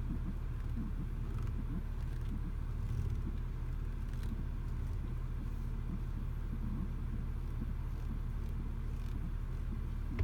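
Audi Q7 on the move: a steady low rumble from the road and drivetrain, with a few faint, short squeaks now and then.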